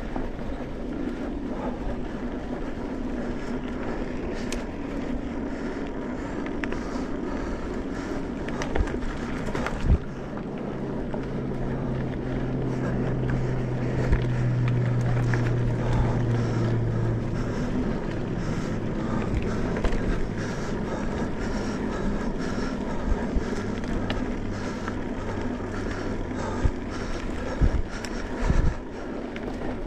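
An off-road vehicle engine running steadily while riding a dirt trail, its pitch rising for several seconds about a third of the way in and then settling lower. Wind buffets the microphone, with a few sharp knocks along the way.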